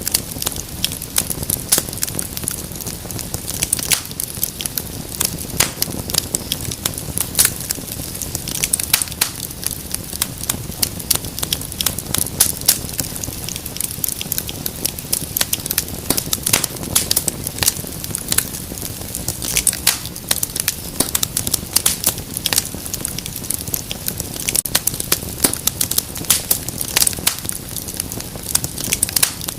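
Wood fire crackling steadily, with dense irregular snaps and pops over a low, steady rush of flame.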